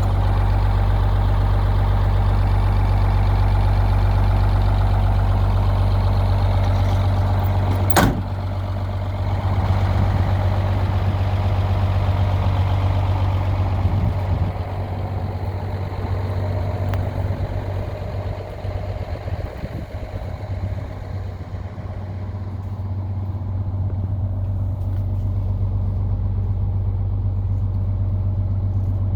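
GMC Brigadier grain truck's engine running steadily, with a single sharp click about eight seconds in and a quieter stretch midway.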